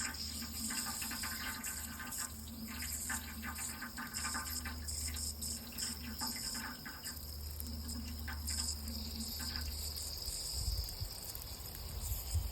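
Water running steadily, a continuous rushing hiss with a low rumble underneath.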